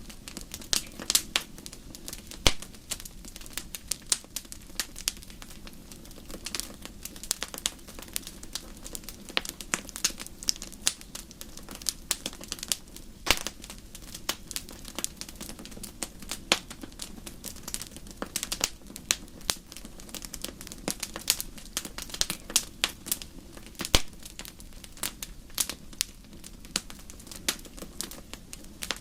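Campfire crackling: irregular sharp pops and snaps over a low, steady rush.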